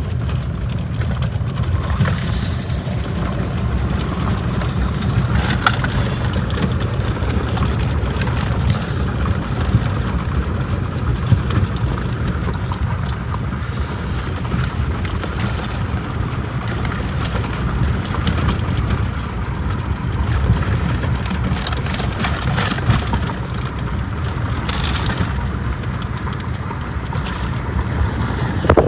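Strong wind buffeting the microphone: a steady low rumble with crackling gusts.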